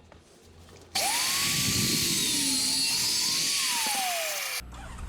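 A power tool cutting stainless steel exhaust tube: its motor spins up quickly, runs with a loud high hiss of the cut, then winds down with a falling whine before stopping suddenly.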